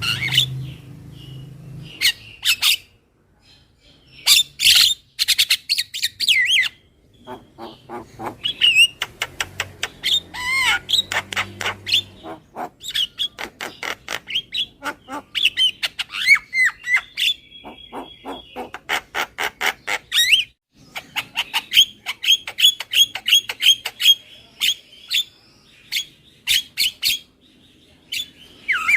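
Javan myna (jalak kebo) calling: harsh squawks and whistled notes mixed with fast rattling chatter of rapid clicks, in bouts broken by short pauses.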